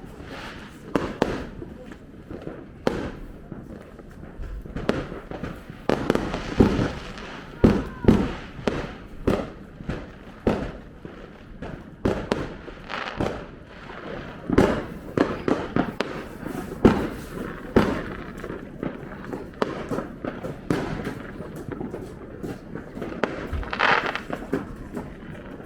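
Fireworks and firecrackers going off all around: an irregular run of sharp bangs and pops, at times two or three a second, some followed by a short rumbling echo.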